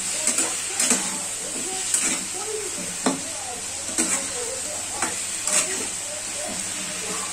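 Pumpkin pieces sizzling in oil in a metal kadhai while a flat spatula stirs them, being fried (bhuna) with turmeric and salt. A steady sizzle runs under sharp scrapes and knocks of the spatula against the pan, roughly one a second.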